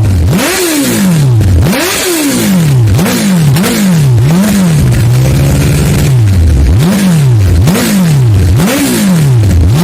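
Suzuki GSX-R1000 inline-four revved through an aftermarket Arrow exhaust: about nine sharp throttle blips, each rising fast and falling back, with a brief steady idle midway.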